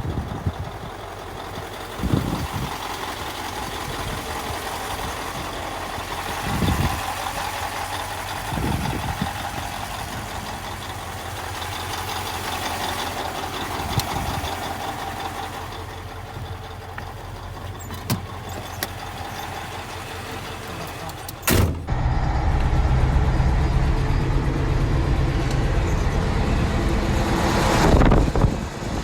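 Heavy truck engine running steadily, with a few short knocks and clunks over it; about two-thirds of the way through the sound changes suddenly to a louder, deeper rumble.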